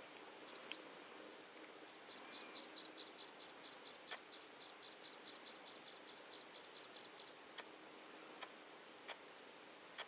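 A small bird singing a rapid trill of short, high repeated notes, about seven a second, lasting some five seconds, over faint background hiss. A few sharp clicks sound in the second half.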